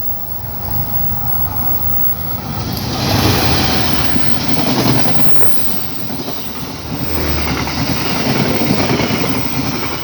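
A train passing close by: a loud rush of wheel and running noise that swells, peaks twice and falls away.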